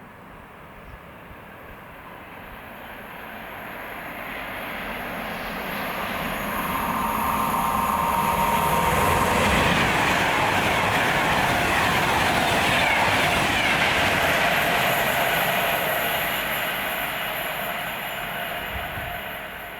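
A train passing through the station: it builds up from a distance, is loudest around the middle with wheel and rail noise, then fades as it goes away. A steady high whine is heard while it approaches.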